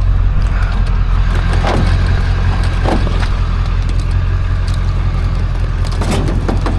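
Steady low rumble of a running vehicle, with a few light clicks and knocks over it.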